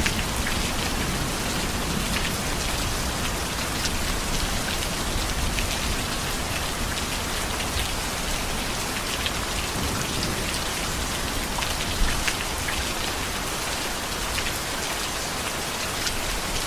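Heavy, steady rain falling on a surface, with many individual drop hits standing out. One sharper hit comes about twelve seconds in.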